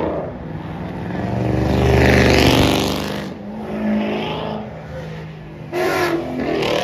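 Ford Mustangs accelerating hard past one after another. The engine noise is loudest about two seconds in, with a smaller swell about two seconds later.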